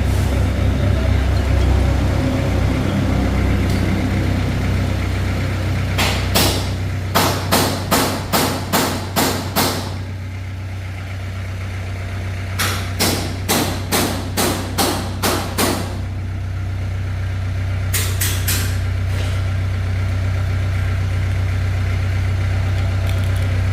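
An engine idling with a steady low hum, while a hammer strikes metal in runs of rapid blows, about two or three a second: ten or so blows starting about six seconds in, eight more a few seconds later, and a few lighter ones near the end.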